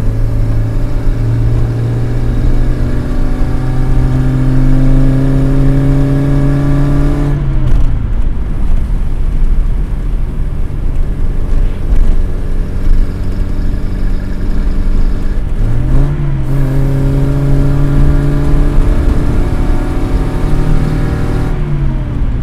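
Classic Mini's BMC A-series four-cylinder engine heard from inside the cabin while driving. The revs climb steadily, drop sharply about seven seconds in, run rough and unsteady for several seconds, then climb again and drop once more near the end.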